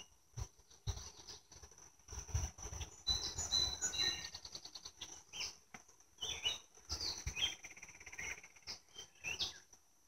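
Birds chirping, with short calls and quick trills, over a steady high-pitched tone and scattered low thumps.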